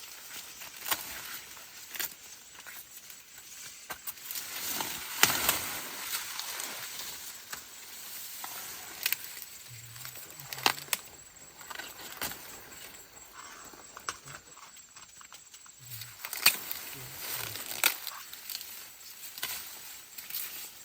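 Rustling with irregular sharp snaps and cracks, a dozen or so spread through the stretch, the loudest about five seconds in and again near the middle and toward the end.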